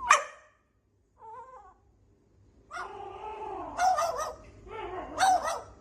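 A cat yowling: a short cry at the start, a brief wavering call about a second in, then a long drawn-out wavering yowl from about three seconds in.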